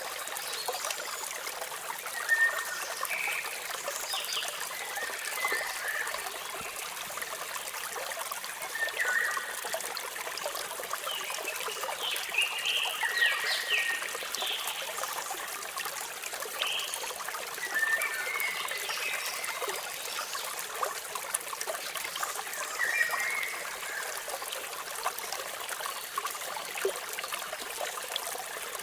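Water of a small waterfall running steadily, with birds chirping on and off over it in short calls.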